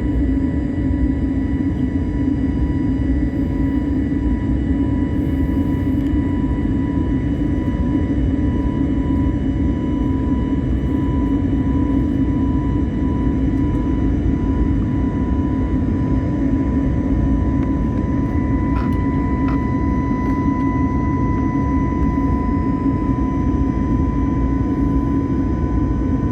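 Steady roar of an Airbus airliner's cabin in flight: engine and airflow noise, strongest low down, with a few faint steady tones over it and two faint ticks about two thirds of the way through.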